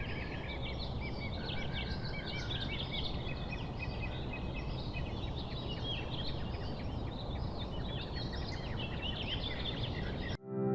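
Many small birds chirping and trilling at once, over a steady low background noise; it all cuts off just before the end.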